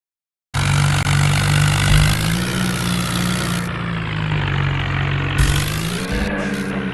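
Swaraj 841 diesel tractor engine running steadily, starting about half a second in; its revs rise a little twice.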